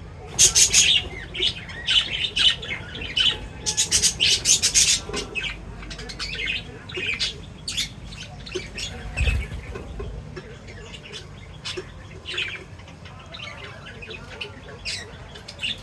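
Small pet parrots chirping and squawking in short, sharp calls, busiest in the first five seconds and thinning out after. A low bump about nine seconds in.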